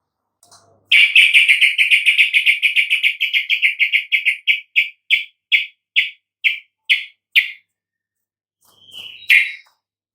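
Yellow-vented bulbul (trucukan) calling: a fast run of short, clear notes begins about a second in and gradually slows to separate notes over the next six seconds, followed by one more note near the end.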